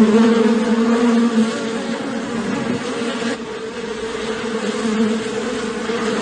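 Cartoon sound effect of a buzzing insect: a loud, steady, pitched drone that holds its pitch throughout.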